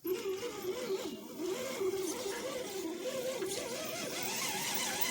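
Redcat Gen7 RC crawler's electric motor and gears whining, the pitch wavering up and down with the throttle as it crawls, climbing higher near the end.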